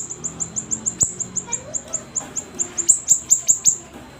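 A siri-siri songbird singing in fast runs of short, high chirps, each sliding downward, several a second, with a brief break about a second in and the notes thinning near the end.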